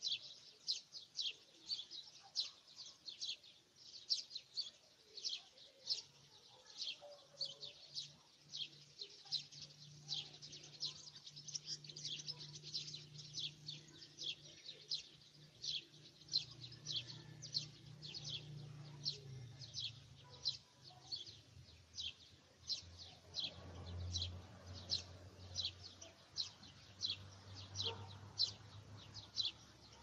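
A bird chirping over and over, short high chirps at about two a second, with a faint low hum underneath.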